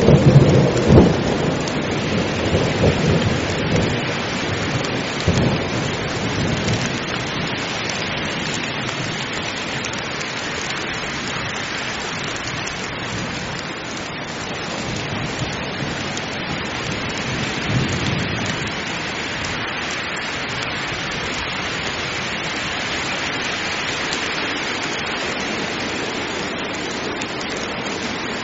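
Heavy rain pouring steadily in a thunderstorm. A roll of thunder rumbles and dies away over the first few seconds, and a shorter low rumble comes about two-thirds of the way through.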